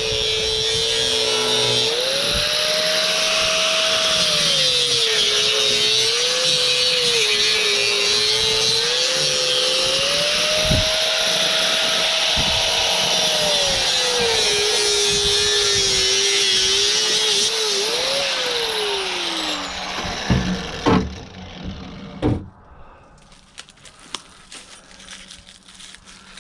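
A handheld power tool cutting, its motor pitch dipping and rising with the load. About eighteen seconds in it winds down with a falling whine, followed by a few sharp knocks.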